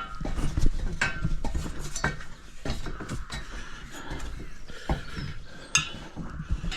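Irregular knocks and metallic clinks of someone climbing a ladder up onto a roof.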